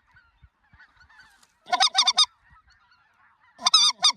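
Geese calling: two loud groups of short, wavering honks about two seconds apart, over the faint continuous chatter of a distant flock.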